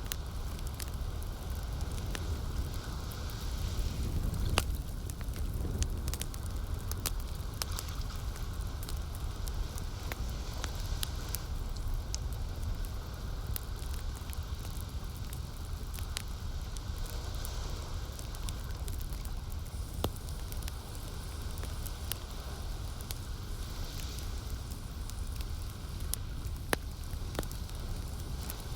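Campfire crackling with many small clicks and a few louder pops, over a steady low rumble.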